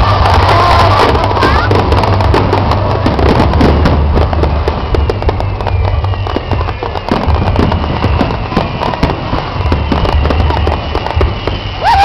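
Fireworks display going off: a dense run of crackles and bangs over a steady low rumble.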